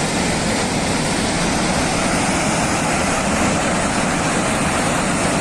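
Steady loud roar of rushing floodwater pouring down a mountainside.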